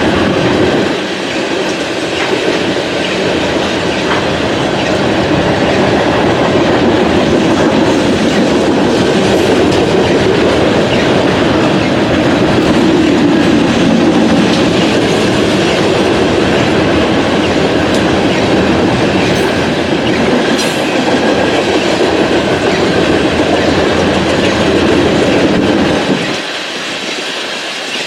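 BNSF coal train's cars rolling past, with a steady, loud noise of wheels on rail. It falls off noticeably a couple of seconds before the end.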